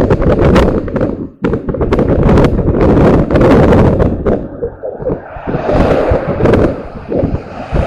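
Heavy wind buffeting on the microphone of a moving bike, with many sharp knocks and rattles. From about five seconds in a rising hiss joins it.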